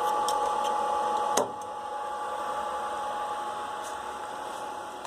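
HP power supply's cooling fan running with a loud, steady whine and rush of air. About a second and a half in there is a click, the level drops, and the fan winds down slowly, as if the supply has been switched off.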